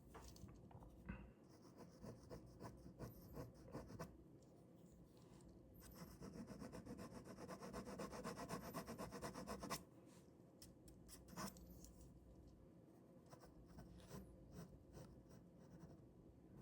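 Ballpoint pen scratching on paper in scattered strokes. About six seconds in comes a run of quick back-and-forth strokes lasting about four seconds, which stops abruptly, followed by lighter single strokes.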